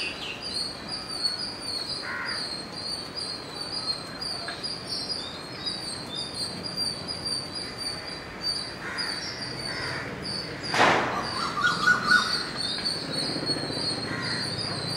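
Birds calling in the trees: a high, rapid chirping repeats throughout, with a few lower calls. About eleven seconds in there is a loud sudden burst, followed by a short run of quick notes.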